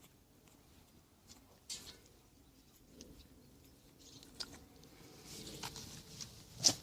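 Faint scuffling, rustling and light clicks of very young puppies moving about, with one sharper click near the end.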